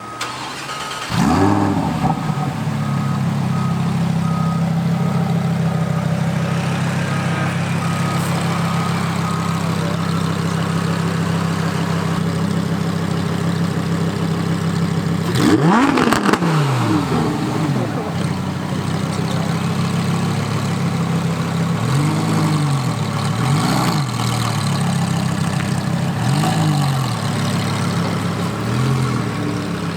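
Straight-piped Lamborghini Huracán STO's 5.2-litre V10 cold-starting about a second in with a quick flare of revs, then settling into a steady, loud cold idle. About halfway through there is one big rev, and in the last eight seconds there are four or five short throttle blips.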